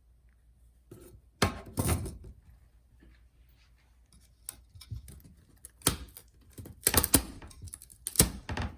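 Irregular sharp plastic clicks and snaps as a MacBook Pro butterfly keyboard is pried out of its riveted top case and breaks apart piece by piece.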